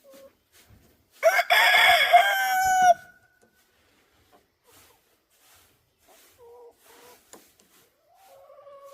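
A rooster crows once, loudly, about a second in, the call lasting nearly two seconds and trailing off at the end. Hens cluck quietly afterwards.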